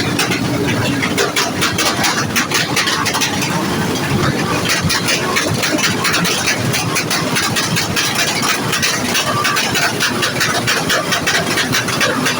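A vehicle engine running loudly and steadily, with no break or change in level.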